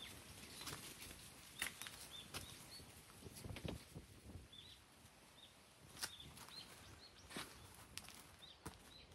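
Faint outdoor ambience: a small bird repeating short, high, arched chirps at irregular intervals, with scattered soft clicks and scuffs of footsteps on paving and dry leaves.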